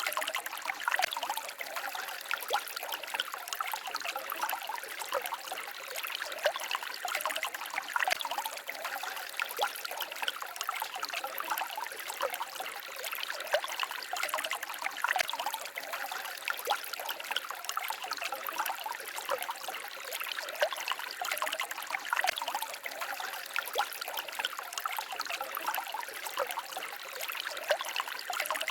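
Small stream babbling and trickling steadily over stones, a constant flow of small splashes and gurgles.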